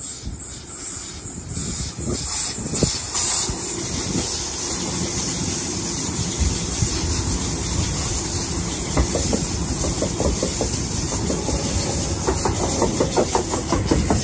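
Sydney Trains double-deck electric train running along the platform close by, its wheels rumbling on the rails under a steady hiss. A run of quick wheel clicks comes over the rail joints in the later part.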